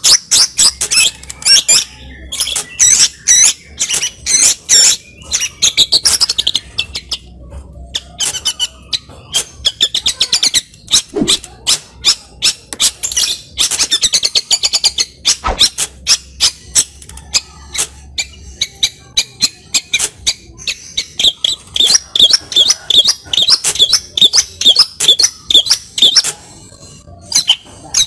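Long-tailed shrike (cendet) singing loudly: a rapid, varied string of sharp chattering notes and mimicked phrases, ending in a run of evenly repeated notes at about three a second.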